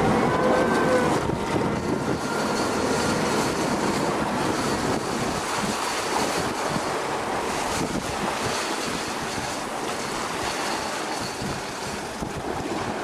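Sport-fishing boat at sea: a steady rush of engine and water noise, with wind buffeting the microphone.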